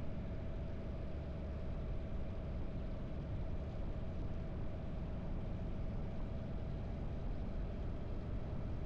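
Harley-Davidson air-cooled V-twin motorcycle engine running steadily while riding at an even speed, with no revving up or down.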